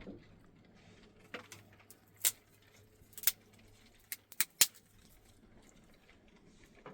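Sharp clicks and knocks, about six of them at irregular intervals with a quick cluster of three near the middle, over a faint steady low hum.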